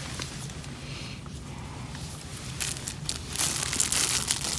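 Plastic food packaging being handled and torn open, a crinkling and rustling that grows louder about three seconds in.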